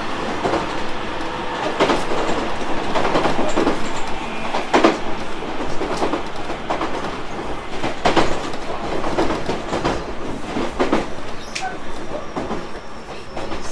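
Tobu 30000 series electric train running, heard from inside the car: steady rolling noise with wheels clacking over rail joints at irregular intervals. It grows a little quieter near the end.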